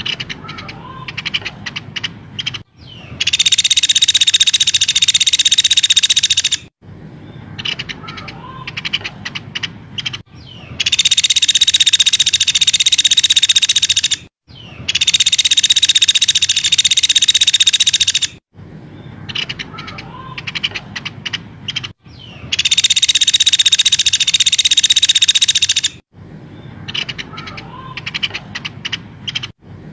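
Recorded songbird calls played as a bird-training (masteran) track: stretches of short, sharp chirps and clicks alternate with four loud, dense, high-pitched chattering spells of about three and a half seconds each.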